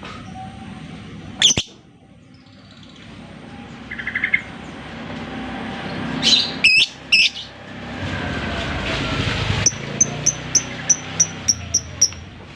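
Lovebird calling: a few loud shrill calls, then near the end a fast, even run of about nine short high chirps.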